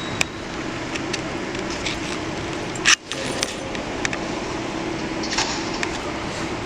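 Scattered small clicks and rattles over a steady room hum, with one loud sharp click about three seconds in.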